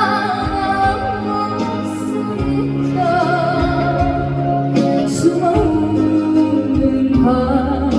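A singer holding long notes with a wavering vibrato over instrumental accompaniment.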